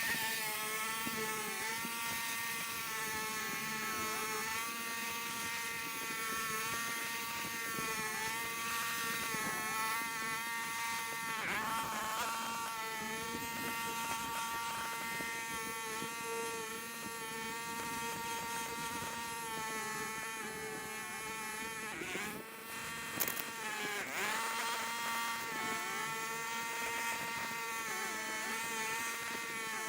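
Small engine running steadily at a constant high speed, its pitch dipping briefly a few times as if it is taking load.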